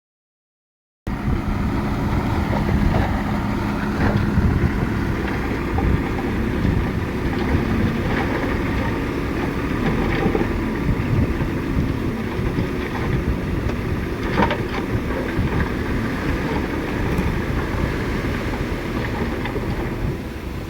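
Heavy diesel earthmoving machinery running under load, a steady low rumble with occasional metallic clanks. The sound cuts in abruptly about a second in.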